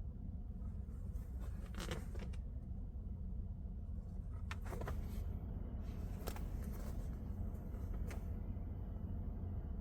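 A steady low hum with a few brief, faint rustles or creaks scattered through it.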